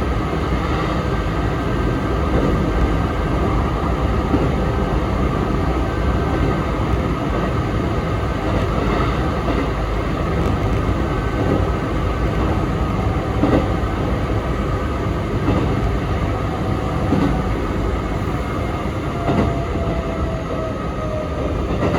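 A Sanyo Electric Railway 3050 series electric train running, heard from on board: a steady rumble of wheels and running gear with scattered light clicks over the rail joints. A faint tone glides slowly down near the end.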